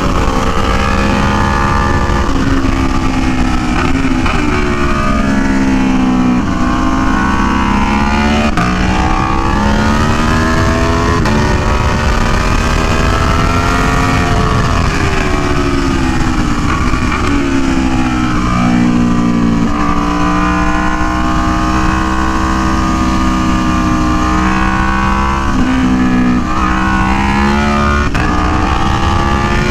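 Aprilia Tuono V4 1100 Factory's V4 engine at full track pace, repeatedly climbing in pitch under hard acceleration and dropping sharply on gear changes and braking.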